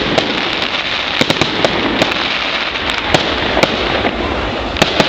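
Fireworks display: a dense, steady crackle with about a dozen sharp bangs and pops at irregular intervals, sometimes two close together.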